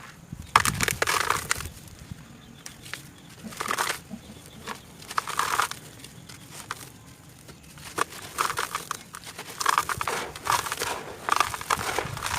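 Close-miked crunching: bunches of crisp crackles a second or two apart, with quieter gaps between and a longer, denser run in the last few seconds.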